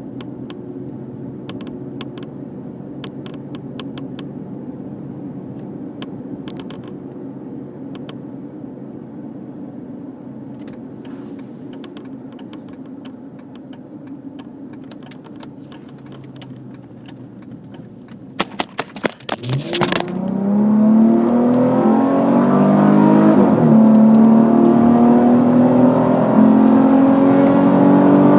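Dodge Charger SXT's 3.5-litre V6 through a Pypes Street Pro cat-back exhaust with JBA shorty headers, cruising steadily at low revs. About 19 seconds in there are a few sharp knocks, then the engine accelerates hard and gets much louder, revs climbing with a dip at an upshift.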